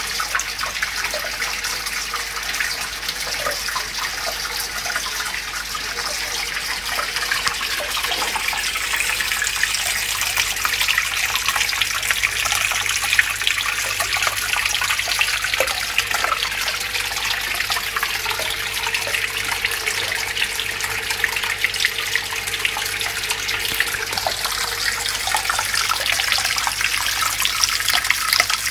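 Home-made terrarium waterfall running: water from a 3000 l/h pump pouring and splashing steadily, with a faint low hum underneath.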